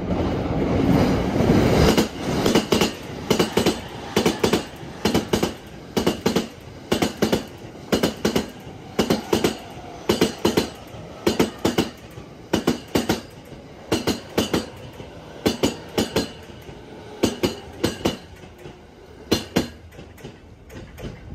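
E217 series electric commuter train passing at speed close by, its wheels clacking over a rail joint. A rumble builds for about two seconds, then sharp clacks come in quick groups of two or three as each bogie crosses the joint, repeating about once a second for the long 15-car train, and fade near the end as the last car clears.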